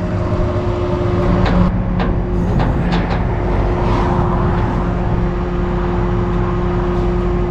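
Tow truck engine running steadily with a constant drone, while the second jet ski is being pulled in after hooking up. A few sharp clicks sound in the first few seconds.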